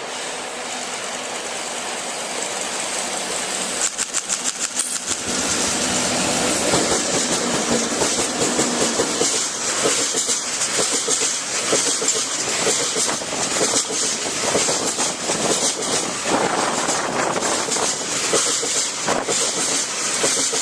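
Freight train hauled by JR EF64 electric locomotives passing close by. The rumble builds, a quick run of wheel clicks over rail joints comes about four seconds in, and then the wagons roll past with a continuous clickety-clack.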